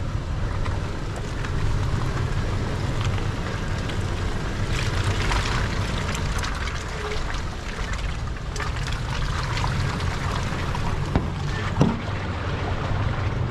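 Toyota 4Runner crawling uphill in four-wheel low: a steady low engine drone, with loose rock crunching and clicking under the tyres and a sharper knock about twelve seconds in.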